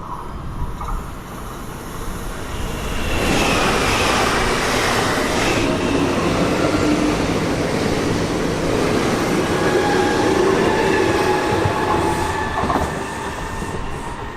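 A train running through the station. The rumble of wheels on rail swells about three seconds in, with steady high whining and squealing tones from the wheels and running gear and a few clacks over rail joints.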